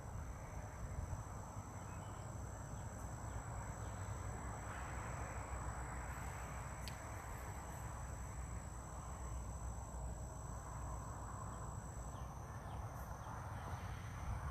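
Insects trilling as steady high-pitched tones, one of them stopping near the end, over a low rumbling background.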